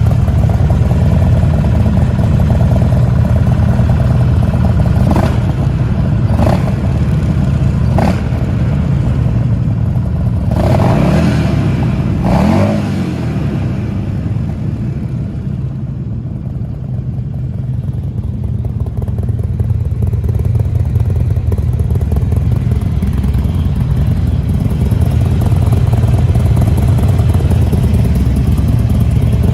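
Custom Buell XB12Scg's 1203 cc air-cooled V-twin running, with several quick throttle blips between about 5 and 13 seconds in. It then drops back and settles into a steady run.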